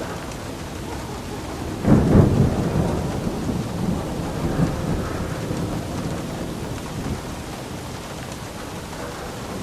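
Steady rain falling, with a thunderclap about two seconds in that rolls on as a low rumble and fades away over several seconds.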